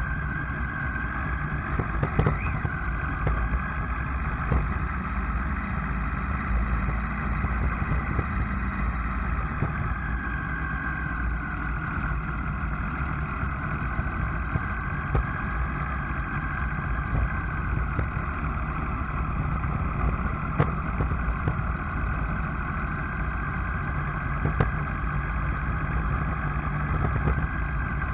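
Vehicle engine running steadily at low speed, its pitch drifting slowly up and down, with scattered faint clicks.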